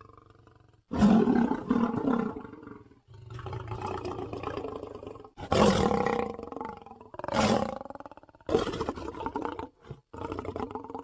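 A string of edited lion roar and snarl sound effects: about six separate roars and growls, the loudest about a second in, each starting and cutting off abruptly.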